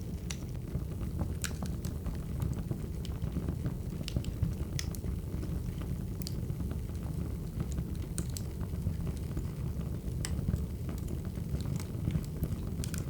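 Crackling wood fire: a steady low rumble of burning logs with irregular sharp pops and snaps, roughly one a second.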